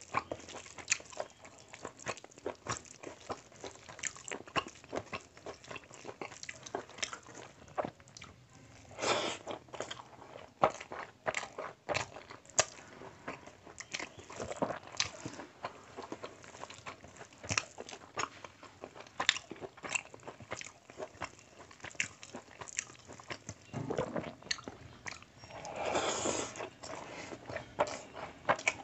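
Close-miked wet chewing and lip smacking as a man eats mouthfuls of rice and mutton curry, a quick run of small clicks with a few longer, louder mouth sounds about nine seconds in and again near the end. Between mouthfuls come the soft squelches of rice and curry being mixed by hand.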